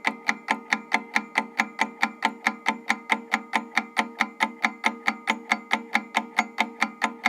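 Ticking countdown-timer sound effect, an even run of sharp ticks at about four to five a second over a steady low hum, counting down the thinking time for a quiz answer.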